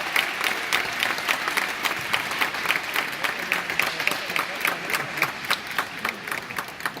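A group of people clapping, a dense patter of hand claps that gradually thins and fades towards the end.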